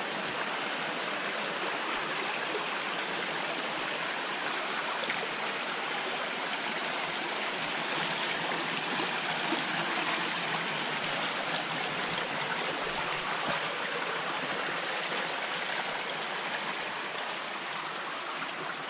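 Stream water rushing steadily over rocks, an even hiss-like rush.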